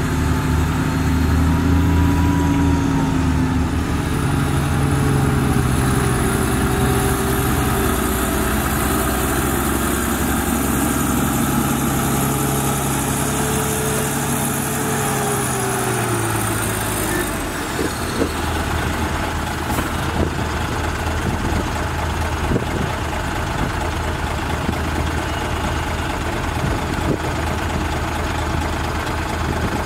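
Heavy diesel engines of a bulldozer and dump trucks at work. For about the first half the engine pitch rises and falls as the revs change, then it settles into a steadier low running note with scattered clanks.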